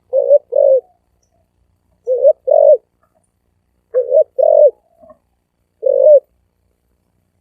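Spotted dove cooing in a deep, resonant voice: three pairs of short coos about two seconds apart, then a single coo near the end.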